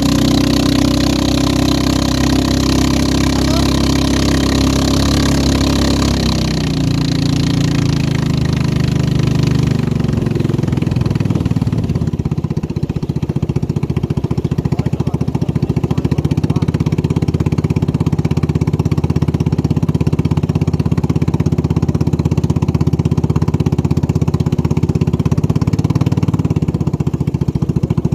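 Racing boat engine running at high revs, dropping in pitch twice, about six and ten seconds in, then running steadily at lower revs.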